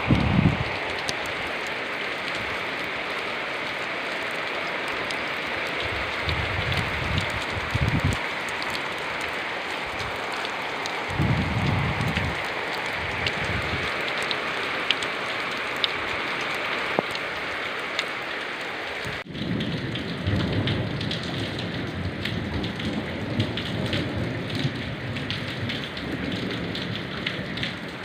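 Steady rain falling, with drops pattering on surfaces and a few short low rumbles. The sound changes abruptly about two-thirds of the way through.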